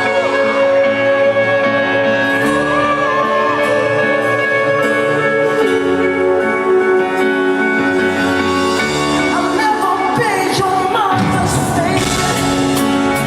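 Live pop ballad from a band and a male lead singer, amplified in a large hall, with sustained keyboard chords under the vocal line. A quick run of sliding vocal notes comes about ten seconds in.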